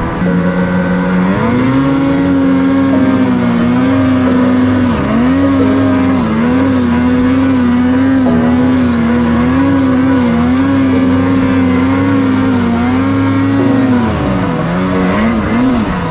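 Snowmobile's two-stroke 850 engine revving up about a second and a half in and held at high, fairly steady revs under throttle with a slight waver. The revs dip briefly around five seconds in, then drop and wobble near the end as the throttle is let off.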